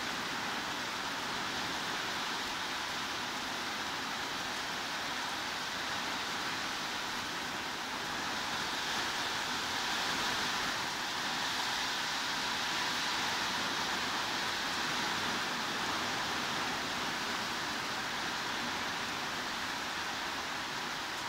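Steady hiss of heavy rain, even and unbroken, swelling slightly about halfway through.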